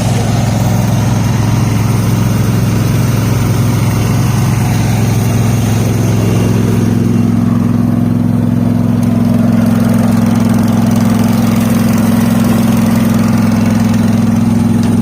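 Garden tractor engine idling steadily close by, its note firming up slightly about six or seven seconds in.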